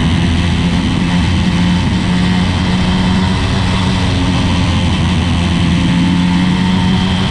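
80cc two-stroke engine of a motorized chopper bicycle running steadily at a nearly constant pitch.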